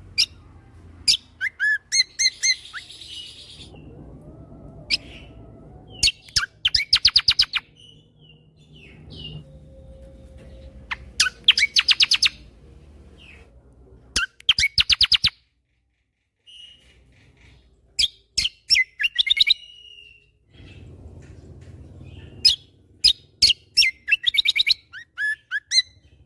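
Kecial kombo (Lombok cucak kombo) songbird singing loudly in repeated bursts: rapid machine-gun runs of sharp notes (the "tembakan" shots) mixed with short whistles, with brief pauses between phrases.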